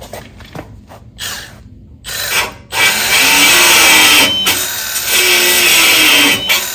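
Power drill drilling out spot welds in a car's frame bracket: a couple of short bursts, then a steady run of about four seconds that cuts off near the end.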